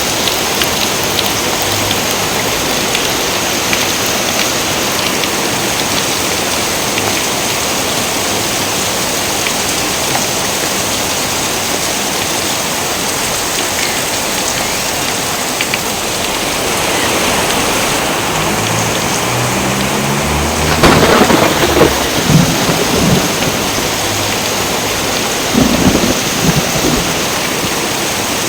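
Heavy rain falling steadily, with thunder: a low rumble builds about two-thirds of the way through, breaks into a loud crack and rolling rumble, and a second, shorter clap comes near the end.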